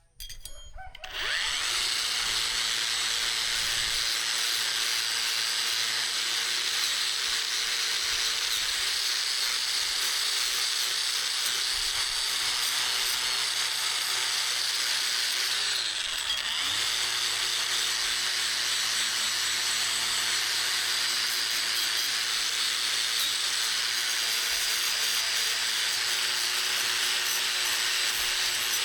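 Electric power tool starting up and running steadily with a loud, high hiss. Its motor pitch sags briefly about halfway through, then comes back up.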